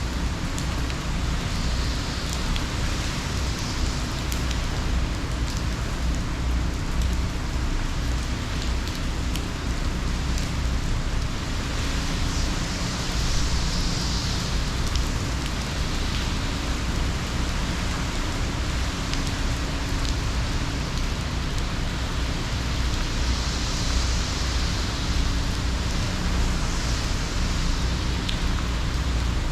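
Steady heavy rain driven by a hurricane, with a low rumble underneath and hiss that swells now and then.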